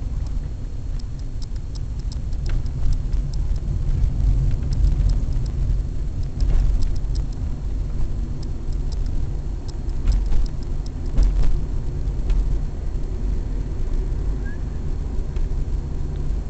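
Low, steady rumble of a car driving, with scattered light clicks and rattles over it.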